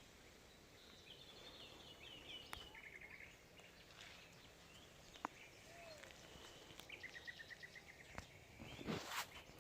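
Faint outdoor ambience with small birds calling: short trilled chirps and warbling notes, twice. Near the end there is a brief rustling noise, the loudest sound.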